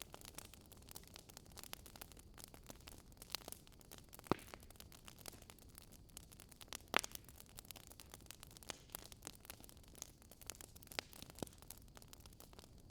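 Wood fire crackling: a low hiss with scattered irregular crackles and a few louder pops.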